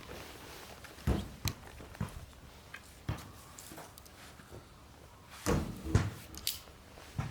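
Irregular knocks and clunks, as of objects being handled and set down, about eight of them spread over several seconds, the loudest pair around five and a half and six seconds in.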